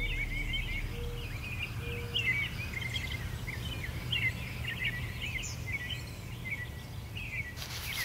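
Several small songbirds chirping and singing in quick overlapping phrases, over a steady low background rumble of outdoor noise.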